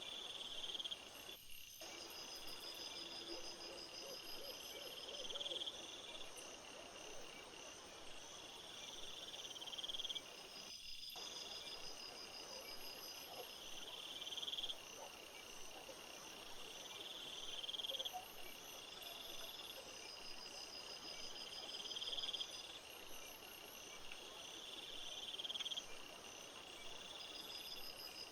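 Chorus of singing insects such as crickets: several overlapping pulsed trills, one high trill swelling and breaking off about every four seconds over steady higher chirping. The whole sound cuts out briefly twice, once near the start and once about ten seconds later.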